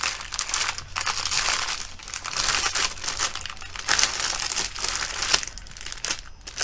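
Clear plastic bag crinkling in irregular bursts as hands grip and move it.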